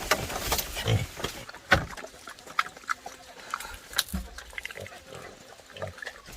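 Wild boars grunting in the first second or so, then scattered short clicks and knocks.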